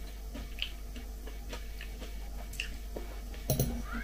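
Close-miked chewing of a leafy green salad, soft wet crunching, with faint short clicks of a fork in a glass bowl; the sounds grow louder near the end.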